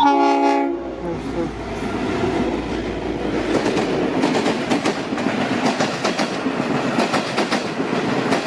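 A short blast on the Leslie RS5T five-chime horn of V/Line N-class locomotive N461 at the very start. Then the locomotive and its carriages pass close by, steady and loud, with wheels clicking over rail joints.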